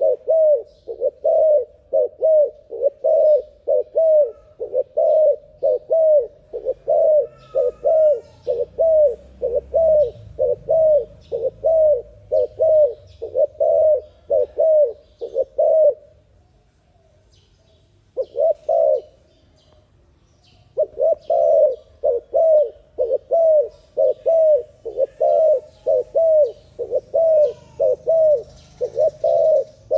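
Dove cooing in a fast, steady run of repeated coos, about two a second, with a pause of a few seconds around the middle before the run resumes.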